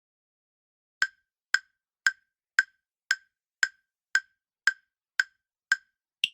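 Countdown timer ticking in a quiz: ten short, even ticks about two a second, starting about a second in, with a higher-pitched click at the very end.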